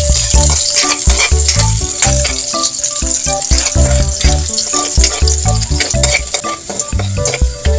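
Garlic and onion sizzling in hot oil in a wok, with the spatula scraping and knocking against the pan as they are stirred. Background music with a repeating bass line plays along.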